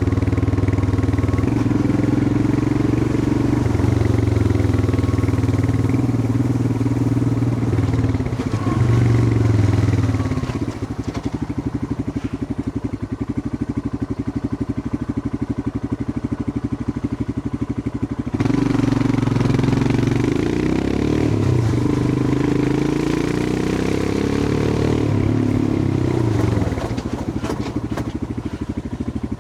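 Royal Enfield Himalayan 411's single-cylinder engine running on the move. Its note rises shortly before ten seconds in, then falls quieter for about eight seconds before coming back louder, with its pitch shifting a few times near the end.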